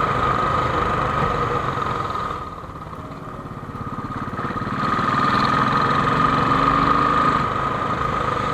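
A motorcycle engine running steadily with a high whine over it. It drops off for a couple of seconds in the middle, then its pitch climbs as it picks up again.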